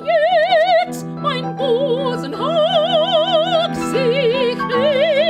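Operatic soprano singing an aria, holding a string of notes of about a second each with a wide vibrato, over sustained instrumental accompaniment.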